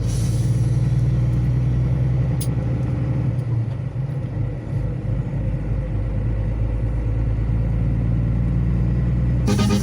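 Semi-truck's diesel engine running steadily, a low drone, with one short click about two and a half seconds in.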